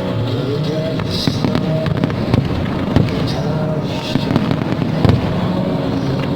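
Fireworks bursting over the music that accompanies the display. There are sharp bangs about a second in, at three seconds and near five seconds, and hissing crackle between them.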